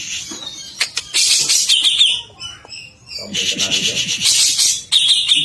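Cucak ijo (greater green leafbird) singing agitated, in two long, loud bursts of fast, dense, high-pitched chattering song with short pauses between, a third burst starting near the end.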